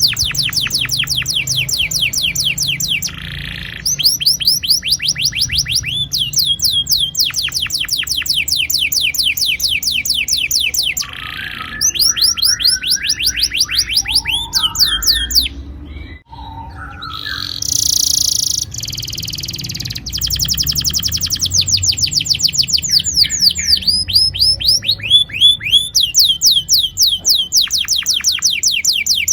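Domestic canary singing long rolling trills: runs of rapid, high, downward-sweeping notes, each run lasting several seconds, broken by short pauses and, about halfway through, a brief stretch of lower, varied chirps.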